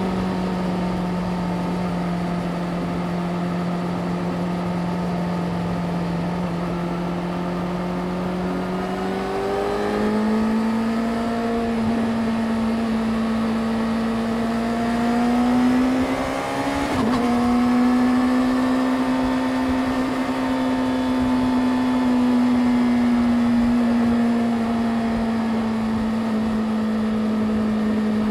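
Yamaha YZF-R6's inline-four engine running steadily under way, its pitch rising gently about 9 seconds in and again around 14 to 16 seconds in, with a brief dip near 17 seconds before it settles to a steady note.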